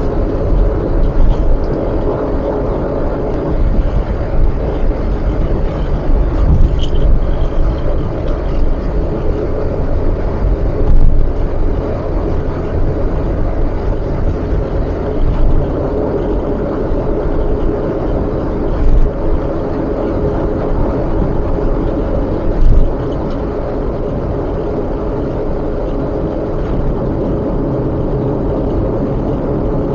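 Car cruising on an expressway, heard from inside the cabin: steady tyre and engine rumble, with a few brief louder bumps.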